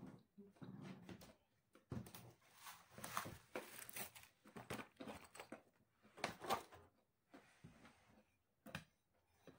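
Quiet eating sounds: chewing raw vegetables and handling food on a plate, heard as short, irregular crunches and rustles.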